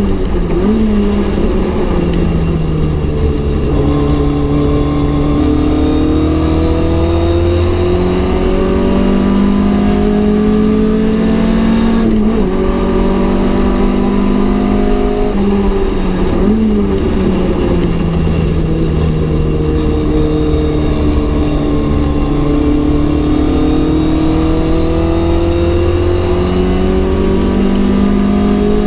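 Mk.1 Ford Cortina GT's four-cylinder engine at racing speed, revs climbing steadily and dropping sharply at each gear change. A few quick dips and rebounds in pitch, about a second in, about 12 seconds in and near 17 seconds, sound like throttle blips on downshifts for corners.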